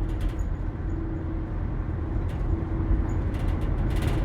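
Steady low rumble of a car driving, heard from inside the cabin, with a faint steady hum that fades in and out.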